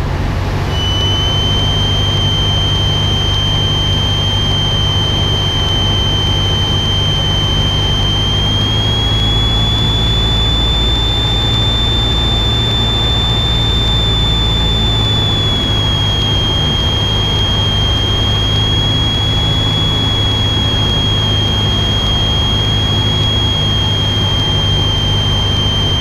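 Cessna 172 engine and propeller drone heard in the cockpit, steady throughout, with a steady high-pitched whistling tone over it that starts about a second in and shifts slightly up in pitch partway through, then back down; the deepest part of the drone drops away about two-thirds of the way in.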